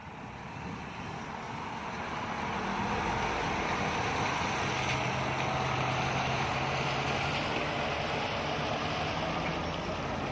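Scania P460 XT dump truck's 13-litre six-cylinder diesel engine running under a full coal load, getting louder over the first few seconds and then holding steady.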